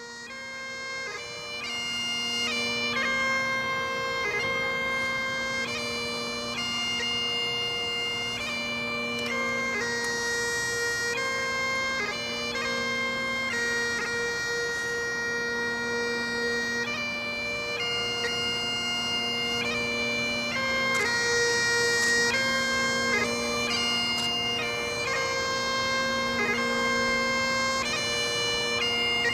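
Bagpipes playing a slow tune of long held notes, fading in over the first couple of seconds.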